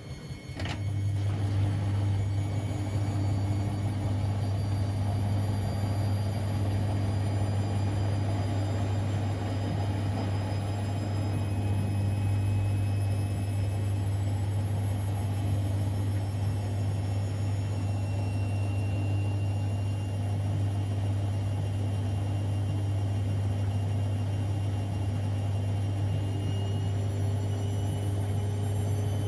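Siemens Extraklasse XLs 140 A washing machine running mid-cycle: about half a second in, a loud steady low hum starts and holds, with a faint whine above it that slowly shifts in pitch.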